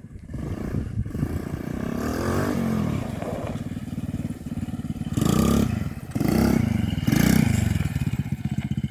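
Small carburetted petrol engine of an RC quad bike, revving up in several short bursts and dropping back to a steady idle between them.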